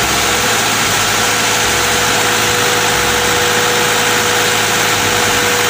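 Engine sound effect for a cement mixer truck: a loud, steady idling-engine rumble with a constant hum, which starts and stops abruptly.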